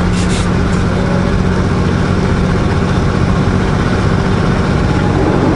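Semi truck's diesel engine pulling steadily in a low gear under a heavy load, a constant drone heard from inside the cab.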